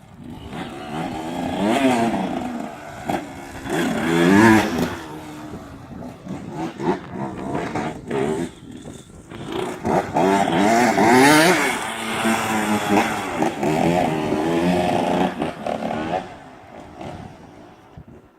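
85cc two-stroke motocross bike engine revving hard and easing off again and again, its pitch rising and falling in waves. It fades near the end.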